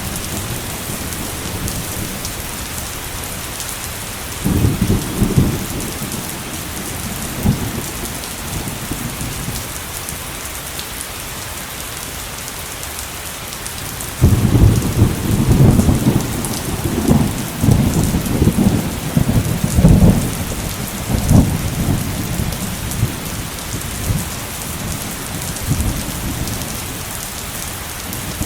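Heavy rain falling steadily through a thunderstorm. Thunder rumbles briefly about four seconds in, then a longer, louder roll begins around the middle, with several sharp peaks over some eight seconds before fading back to the rain.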